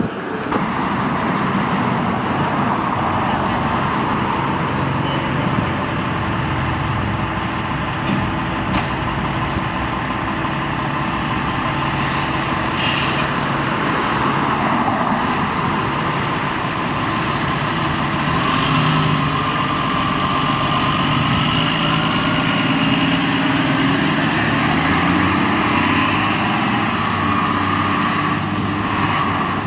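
Heavy fire truck's diesel engine running and pulling away, its pitch rising as it accelerates, with a brief air-brake hiss partway through.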